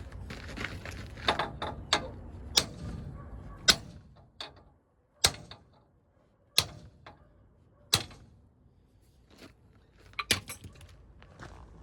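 Irregular sharp knocks and clicks, about eight loud ones with softer handling noise between, from tools and parts being worked while the Ram 1500's front axle shaft is removed.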